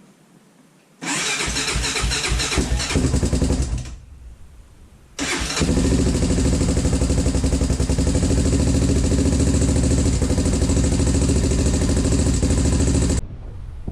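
Honda TRX400EX's single-cylinder four-stroke engine being started for the first time after a top-end rebuild: a first try of a few seconds cranks and sputters without staying lit, then about five seconds in it fires and runs steadily until it stops abruptly near the end.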